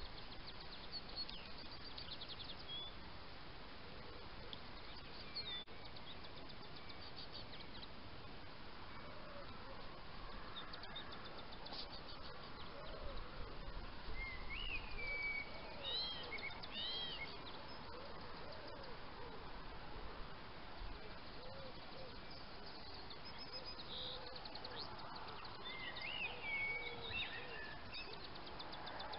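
Faint outdoor ambience with birds calling: short chirping calls in bunches in the middle and again near the end, over a steady background hiss, with softer lower calls in between.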